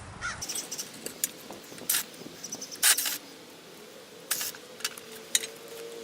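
Scattered sharp metallic clicks and clinks, with a few short scrapes, from tools and parts being handled while the side cover of a bench grinder is taken off.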